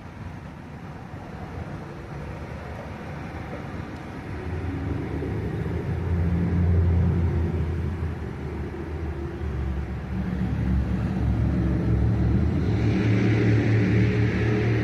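A large vehicle engine running, a low rumble with a steady pitch that grows louder from about four seconds in, with a further rise and a harsher edge near the end.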